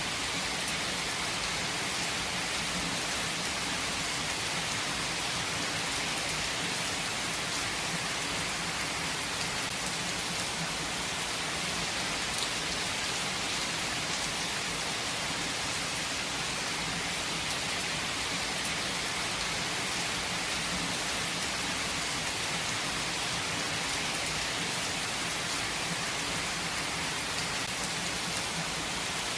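Steady rain falling, an even hiss with a few individual drops standing out now and then.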